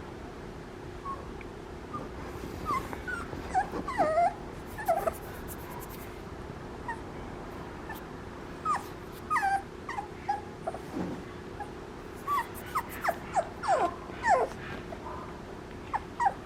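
Papillon puppy whimpering: short, high squeaks that fall in pitch, coming in clusters with pauses between them. A faint steady hum runs underneath.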